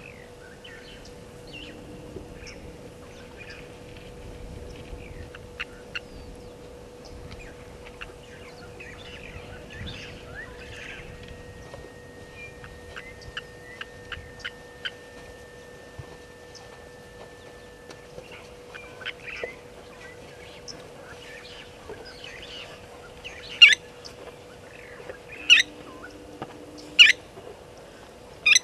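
Wild birds calling and chirping around a bush waterhole. Near the end a loud, sharp call repeats about every second and a half.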